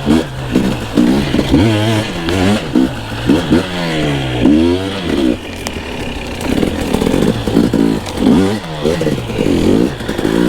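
Two-stroke dirt bike engine being ridden hard, its pitch rising and falling again and again as the throttle is opened and closed over rough ground, with some clatter from the bike.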